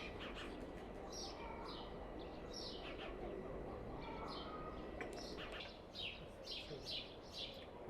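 Birds chirping: short, high, falling notes, sparse at first and then several a second in the last few seconds, over a steady low background noise.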